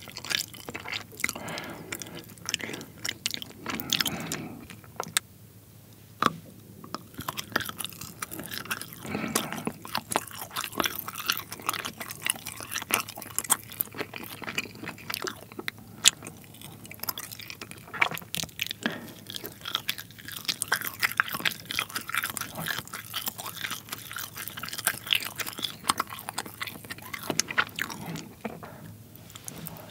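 Close-miked chewing of soft, rainbow-coloured pull-apart string cheese, with many sharp wet mouth clicks and smacks.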